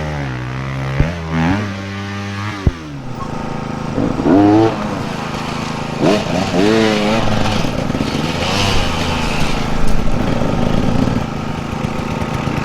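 Dirt bike engines running and revving in short bursts, the pitch rising and falling several times, with two sharp knocks in the first three seconds.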